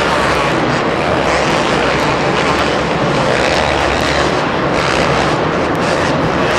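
Several two-stroke supercross/motocross bikes running at high revs, a continuous loud engine buzz with no pauses.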